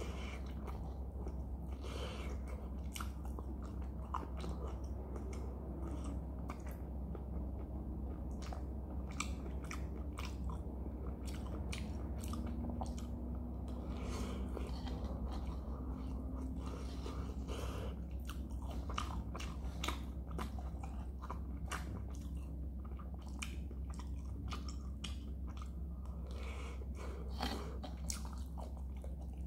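Close-miked chewing of shrimp fried rice, with many short, sharp, crunchy clicks from the mouth. A spoon scoops in a nonstick frying pan, all over a steady low hum.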